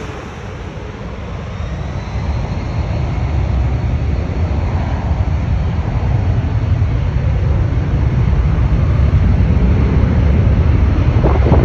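Jet engines of a Boeing 777-300ER airliner arriving to land, a low rumble that grows steadily louder as the aircraft comes closer.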